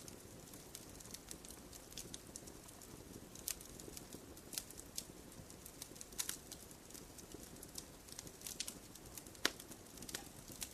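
Campfire crackling: irregular small snaps and pops over a low steady sound of burning, with one louder pop about nine and a half seconds in.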